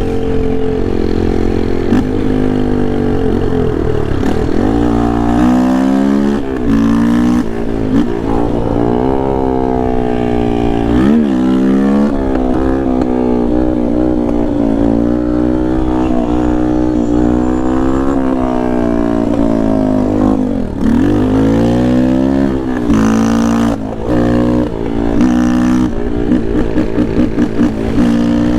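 Yamaha Lander 250's single-cylinder engine under hard riding, its pitch climbing as it accelerates and dropping on each gear change and deceleration, with three deep drops as it slows. Near the end it runs in short, choppy throttle blips.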